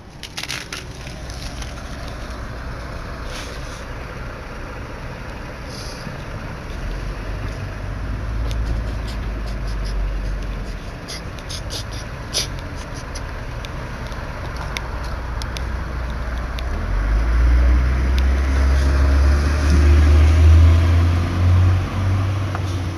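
A motor vehicle's engine running nearby in the street, a low rumble that grows much louder about two-thirds of the way in, over a steady wash of street noise. A few faint clicks come near the middle.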